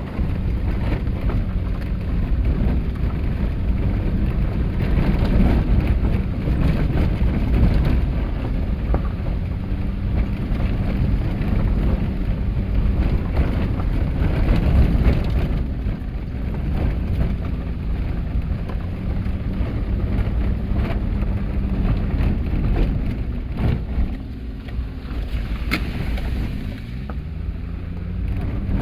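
Car driving on an unpaved forest road: the engine running with its pitch drifting up and down as the speed changes, over a steady rumble of tyres and road noise.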